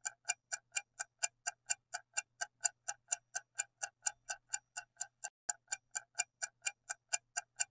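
Clock-like ticking sound effect, about four even ticks a second, used as a quiz countdown timer while the answer is awaited.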